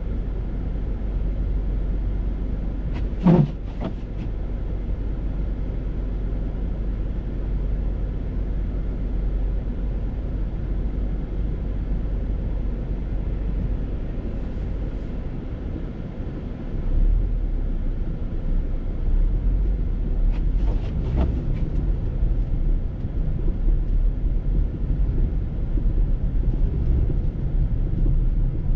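Steady road and engine rumble of a car being driven on a snowy road. There is a short, louder sound with a clear pitch about three seconds in, and the rumble grows a little louder and rougher after the middle.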